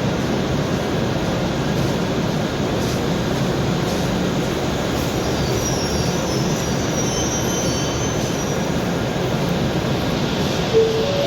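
A train running, with steady rumbling rail noise and a faint high wheel squeal midway. A short pitched tone sounds near the end.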